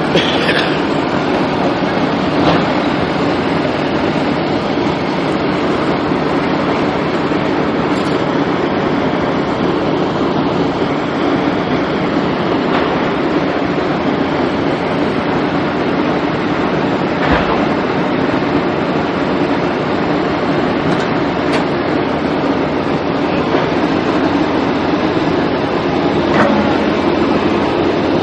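Steady running noise of a vehicle in motion, with a few faint clicks.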